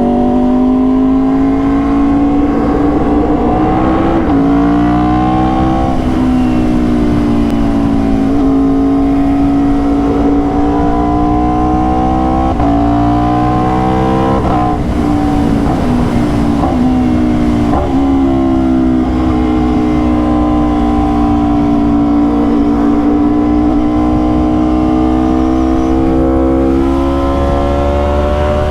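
Aprilia RSV4's V4 engine under way, the pitch climbing under throttle and dropping back several times as it goes up through the gears, then holding fairly level before climbing again near the end. Low wind rumble runs underneath.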